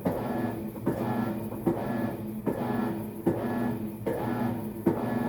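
Maytag MVWX655DW1 top-load washer agitating during its tub clean cycle: the drive motor hums in strokes, with a click at each reversal about every 0.8 seconds, in an even rhythm.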